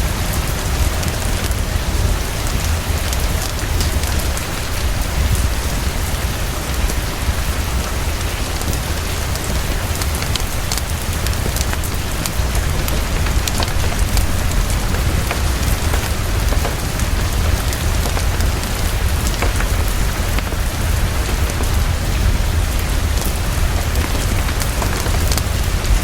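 Heavy, steady rain pouring down, with a deep steady rumble underneath and scattered sharp ticks throughout.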